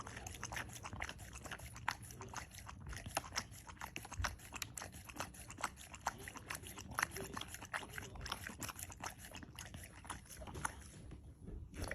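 A dog making faint, irregular clicking sounds, several a second, over a low steady background hum.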